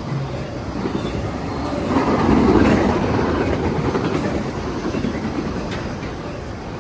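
A freight train's cars rolling past on the main line, steel wheels running on the rails, louder about two seconds in and then slowly fading.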